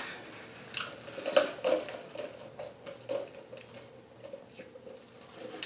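Close-miked chewing and lip smacking while eating chicken wings: a scattered string of soft wet clicks and smacks.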